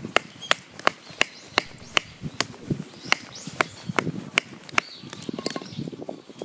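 Rapid, even knife chops on a cutting surface, about three strokes a second, with birds calling faintly in the background.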